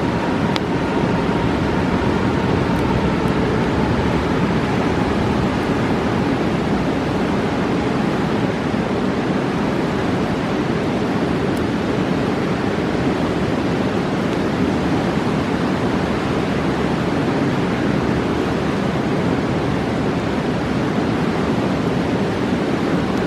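Steady, loud rushing of a roaring mountain river, an even wash of water noise that is deepest in the low-mid range and does not change.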